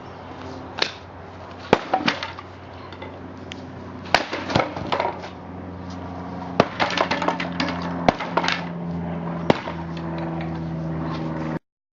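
Sledgehammer blows smashing up an old workbench: irregular heavy strikes, some in quick clusters, with clattering and breaking after several of them. A steady low hum runs underneath, and the sound cuts out abruptly near the end.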